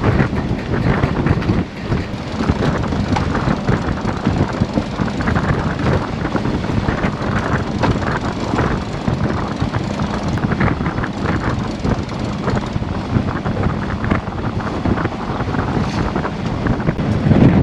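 Steady, loud wind buffeting the microphone aboard a sailboat under way, a continuous rough rumble.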